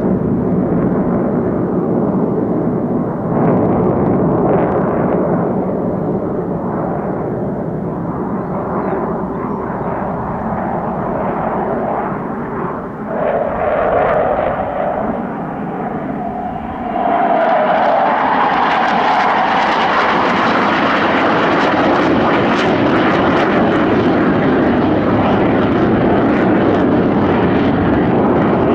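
Saab 35 Draken's single afterburning turbojet passing in a display, a continuous jet noise echoing off chalk cliffs. It dips briefly with a wavering tone, then grows louder and brighter about two-thirds of the way through.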